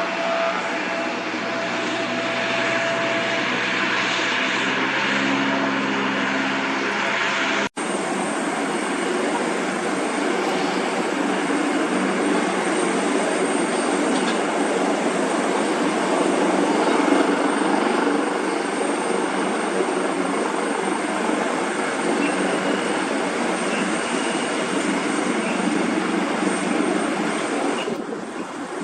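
Jet engines of a twin-engine Airbus KC-30B tanker running at high power, a steady loud roar with a thin high whine on top. The sound breaks off abruptly and resumes about eight seconds in.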